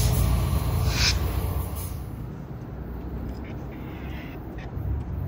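A train's low rumble fading away over the first two seconds or so, with a short hiss about a second in, leaving a quieter low rumble and a few faint clicks.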